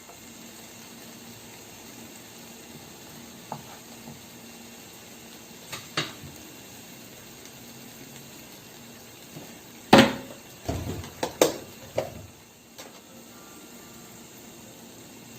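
Kitchen utensils and dishes clinking and knocking a few times over a steady low hiss, with the loudest knock about ten seconds in followed by a quick run of clatters.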